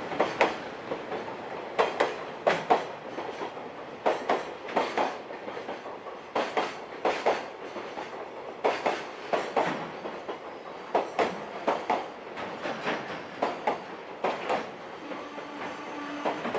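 Container wagons of a freight train rolling by, their wheels clattering over rail joints in repeated groups of sharp knocks. A faint steady squeal of wheels on rail joins in near the end.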